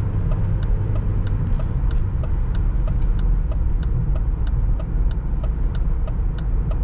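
BMW X5 E53's 4.4-litre V8, running on LPG, cruising at steady highway speed with a continuous low engine and road rumble. A light, regular ticking, about three to four a second, runs through it.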